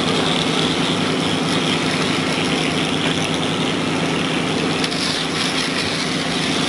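Heavy construction machine's engine running steadily with an even, unbroken drone.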